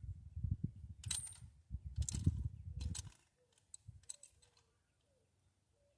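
Hand tools working on a Ford V8's valve train while the rocker arms are adjusted: a wrench or ratchet clicks and scrapes on the rocker nuts. There is a low, rough rumble with sharp clicks for about three seconds, then only a few faint clicks and squeaks.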